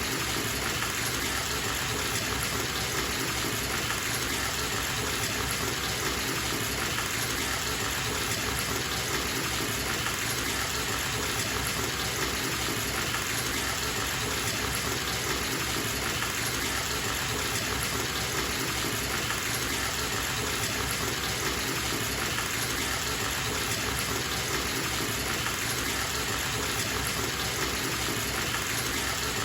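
Bathtub tap running steadily, water gushing into the tub in an even, unbroken rush.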